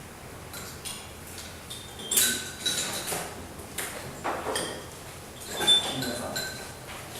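Cups and spoons clinking: a string of light knocks with short ringing tones.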